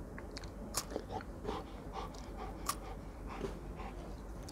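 A person chewing a small piece of snack food: soft crunching and wet mouth clicks, scattered and irregular, with a few sharper ticks.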